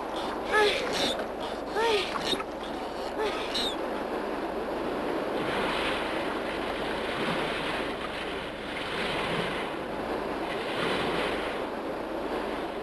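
Surf and waves washing steadily on a shore, with a few short rising-and-falling bird cries in the first few seconds.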